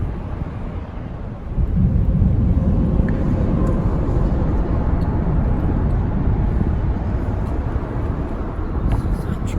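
Wind buffeting the microphone: a rough, low rumble that gets louder about a second and a half in.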